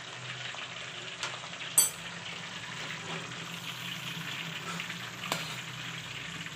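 Hot oil sizzling steadily as potatoes deep-fry, then tomato paste sizzling in a pan as a metal ladle stirs it. A steady low hum runs underneath, with a sharp click about two seconds in.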